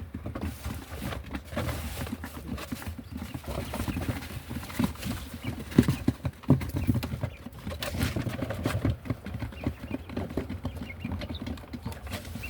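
Quail moving about a cage and pecking, heard as a run of irregular light taps and scuffles.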